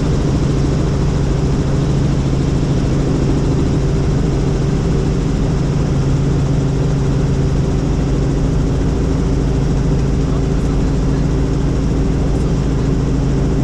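Helicopter in flight: steady turbine and rotor drone with a constant low hum, unchanging throughout.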